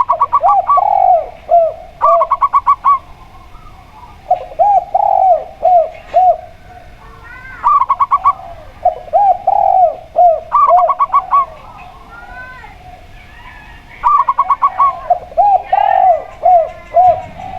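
Zebra dove (perkutut) and spotted dove (tekukur) cooing in turn. Each phrase is a quick rattle of short notes followed by several rounded coos, repeating every few seconds.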